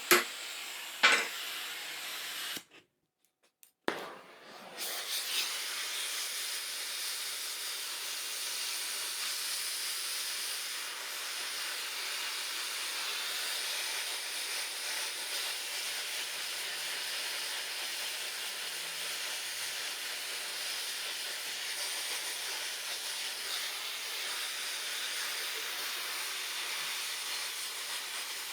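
A sharp knock about a second in, a brief dropout, then a steady, even welding hiss that holds without a break.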